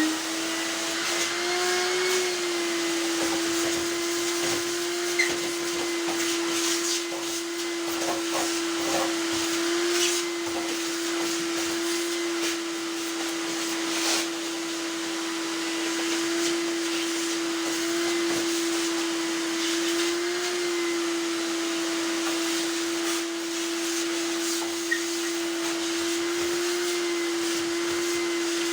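An electric motor and fan spin up, rising in pitch for about a second, then run steadily with a constant hum and rushing air. A few faint knocks come in now and then.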